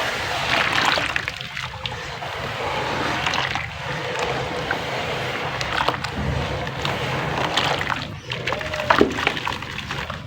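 Water poured steadily onto a lump of soft mud on concrete, splashing and sloshing with scattered small crackles as the mud soaks and breaks up.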